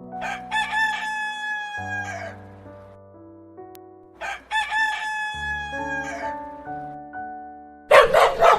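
Rooster crowing twice, each crow a long drawn-out call of about two seconds, over light piano music. Near the end a dog starts barking.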